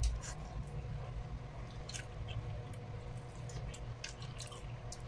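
Close-up chewing of food, with scattered small wet clicks and mouth smacks over a steady low hum.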